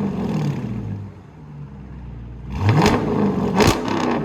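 Straight-piped 2021 Dodge Charger R/T's 5.7-litre HEMI V8, mid and rear mufflers deleted, free-revving: the revs drop back to idle in the first second, then two quick blips of the throttle near the end, each falling back toward idle.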